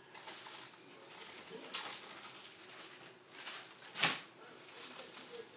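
Scattered knocks and clatter from items being handled while a fridge is cleaned, with the loudest knock about four seconds in.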